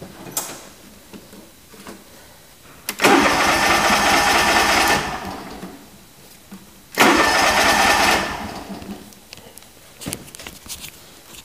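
A small engine being started after sitting a few days: two short bursts of it turning over and firing, the first about two seconds long and the second about a second, each dying away without settling into a steady run.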